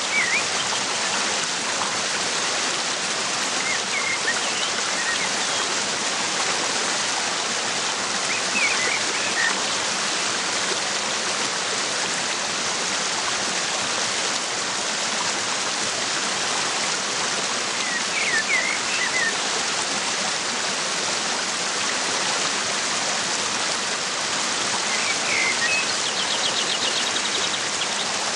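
Waterfall's steady rush of falling water, with a bird giving short chirps every few seconds and a quick ticking trill near the end.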